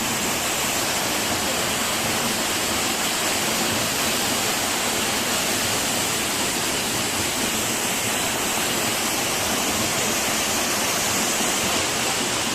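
Waterfall: falling water making a steady, even rush with no let-up.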